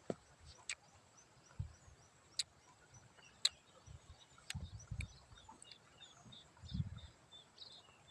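Faint high chirps of small birds repeating throughout, with a few sharp clicks and some low dull thumps of handling close by.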